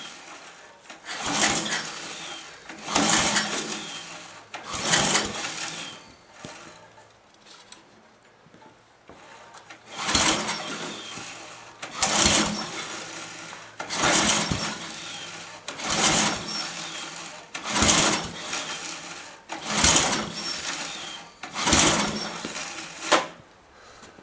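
Briggs & Stratton 10.5 hp I/C engine on a DR brush mower being pull-started from cold, recoil-cranked again and again without catching. There are about ten pulls roughly two seconds apart, three, then a short pause, then about seven more.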